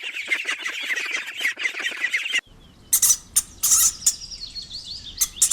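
Ducklings peeping rapidly and continuously with high, shrill calls. About two and a half seconds in, the sound cuts to a different recording: sparser, higher chirps with a few sharp loud clicks.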